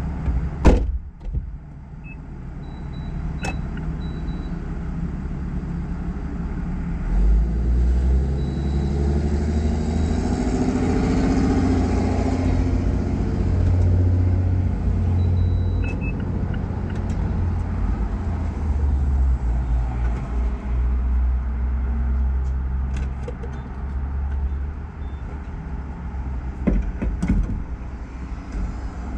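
Low, steady engine hum heard from inside a parked car's cabin, with a sharp knock about a second in. Another vehicle's engine swells and then fades between about 7 and 19 seconds.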